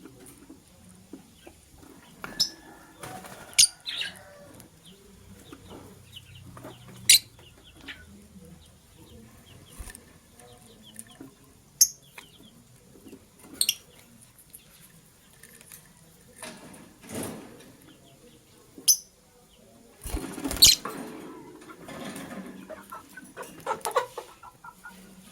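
Pet lovebirds giving short, sharp, high chirps, scattered every second or few, with a louder scuffle of movement about twenty seconds in.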